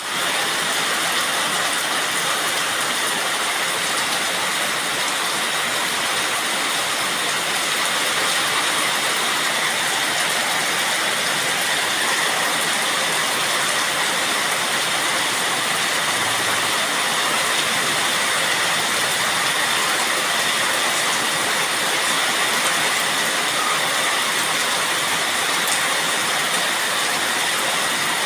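Rain falling steadily, a dense, even hiss that holds at one level throughout.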